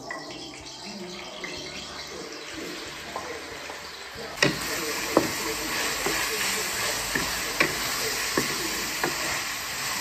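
Sliced beef sizzling in hot oil in an iron wok while being stir-fried with a wooden spatula. The sizzle gets much louder about four and a half seconds in, and the spatula knocks against the wok several times.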